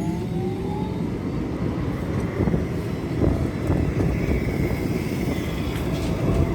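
Tram passing close by: a low rumble of wheels on rail, with a rising electric motor whine at the start and a few knocks from the wheels about halfway through.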